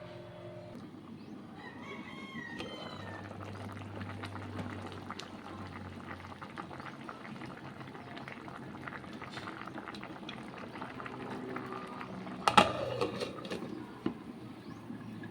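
Pot of vegetables in coconut milk bubbling on the stove, with many small clicks and knocks, while chickens call in the background. A sudden loud sharp sound with a falling tail about twelve and a half seconds in.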